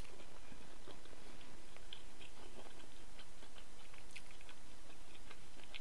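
Close-miked chewing of spicy fried chicken with the mouth closed: soft, irregular small wet clicks with little crunch, over a steady faint hiss.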